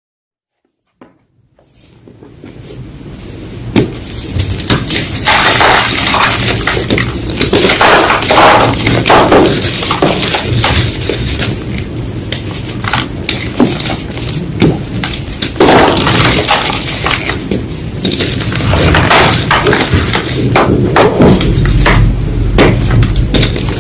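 Blocks of gym chalk being crushed: a dense run of crunching and crackling that begins faintly about a second in and builds to loud within a few seconds.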